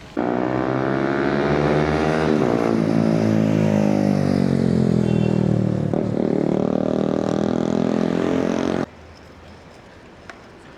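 A motor vehicle's engine running close by, starting and stopping abruptly. Its note falls over the first several seconds, then rises again, like a vehicle slowing and then pulling away.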